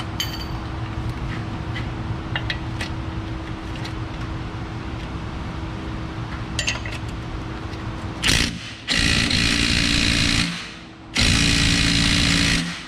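Cordless impact wrench hammering on a suspension control arm bolt: a short blip, then two long bursts of about a second and a half each, near the end. Before that there is a steady low hum with a few light clicks.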